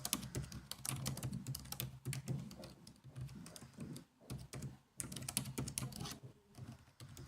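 Typing on a laptop keyboard: quick, uneven runs of key clicks broken by short pauses.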